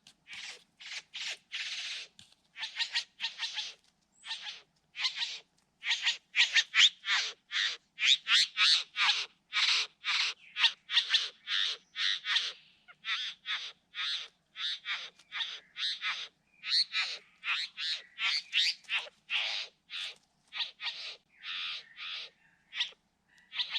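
Satin bowerbirds giving harsh, rasping calls in quick succession, about two to three a second, with short gaps between runs.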